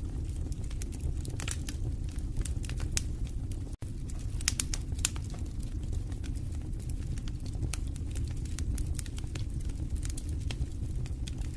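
Wood fire burning in a fireplace, crackling with frequent irregular sharp pops and snaps over a steady low rumble of the flames. The sound cuts out for an instant a little before four seconds in.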